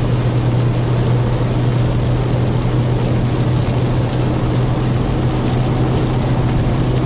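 Steady road noise heard inside a moving vehicle in the rain: a constant low drone with a hiss of tyres on wet pavement and rain over it.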